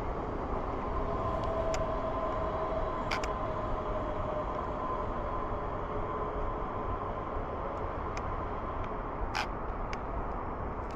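Steady outdoor traffic noise, with a faint passing tone that fades over the first half and a few light clicks.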